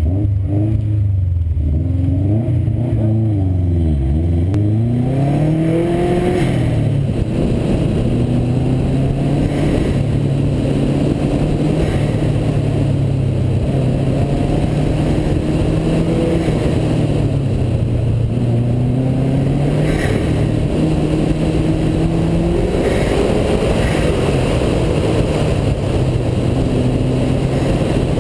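Subaru WRX STI's turbocharged flat-four engine on an autocross run, its revs dipping sharply and climbing again about four seconds in, then rising and falling again and again with throttle and shifts over a steady rush of wind and road noise.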